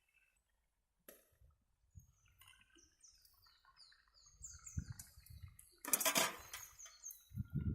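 A bird calling outdoors, a quick run of short, high, falling chirps, over a low rumble, with a brief loud rushing noise about six seconds in.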